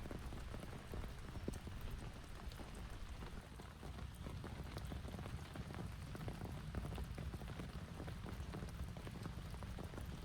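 Heavy rain falling steadily: a dense hiss full of sharp ticks from individual drops striking close by, over a constant deep rumble.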